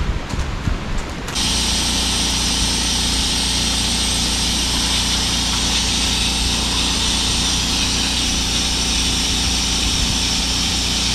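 Electric air pump switching on about a second in and running steadily with a strong hiss, inflating an inflatable boat or float. Some light knocks and handling sounds come just before it starts.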